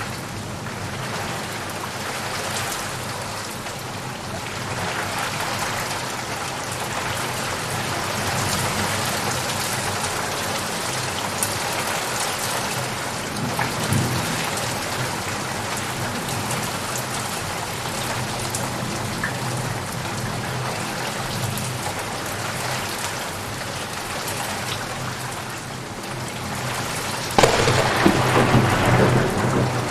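Steady rain falling, with a sudden loud crack and rumble of thunder starting near the end.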